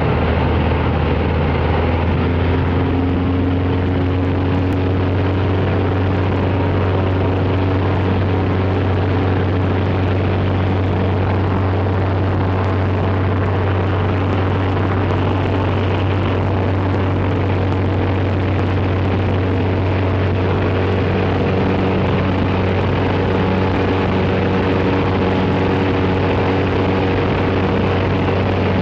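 Cessna 188 AGwagon crop-duster's piston engine and propeller running at high power on takeoff: a loud, steady sound with a strong low hum, its pitch shifting slightly a few times.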